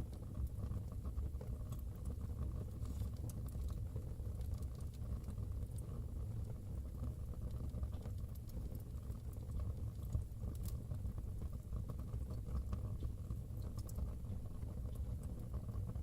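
Wood fire burning in a fireplace: a steady low rumble with scattered small crackles and pops, one a little louder about ten seconds in.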